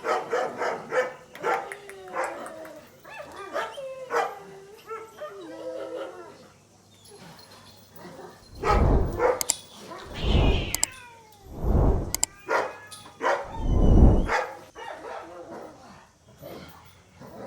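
Dogs barking and yipping in quick short calls, with four loud, deep rumbling bursts in the middle.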